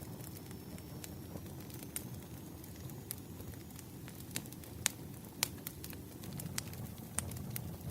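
Campfire burning: a steady low rumble of flames with sharp, irregular crackles and pops of burning wood, the loudest pops about five seconds in.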